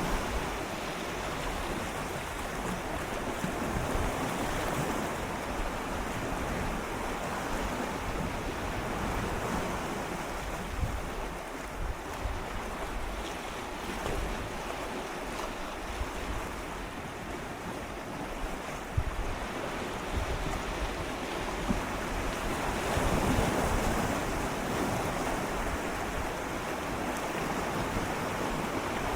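Gentle sea waves swirling and lapping against shoreline rocks, a continuous wash that swells slowly, fullest about three-quarters of the way through, with a few brief sharp splashes. Light wind noise on the microphone underneath.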